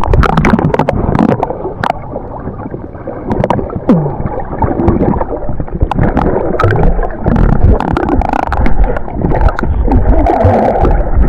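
Muffled water sounds from a camera held underwater: sloshing, gurgling and splashing with scattered sharp knocks, the high end dulled.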